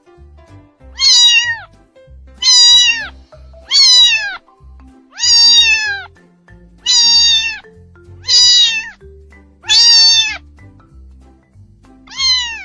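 Kitten meowing over and over, eight high-pitched meows about a second and a half apart, each falling in pitch at the end. Faint background music underneath.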